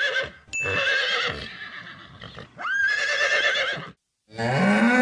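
Horse whinnying in high, quavering calls, two long whinnies with a brief fade between. Near the end a cow starts a low moo.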